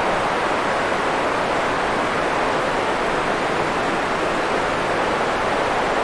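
Steady, unchanging hiss of white noise, fuller in the middle and softer in the highs, with no drips, clicks or rhythm.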